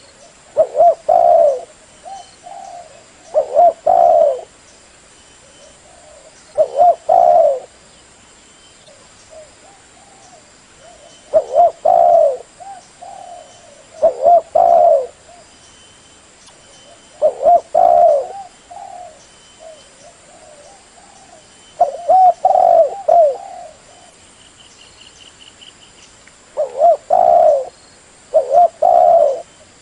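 Spotted dove (tekukur) cooing: a repeated phrase of low coos, about a second long, every few seconds, with softer coos in between.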